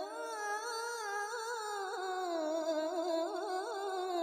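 A woman reciting the Quran in melodic tilawah style, holding one long drawn-out syllable. The pitch rises at the start, steps down about halfway, then wavers in quick trills near the end.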